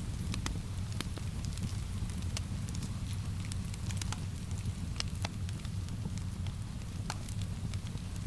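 Wood fire crackling: irregular sharp pops and snaps over a steady low rumble, blended with rain.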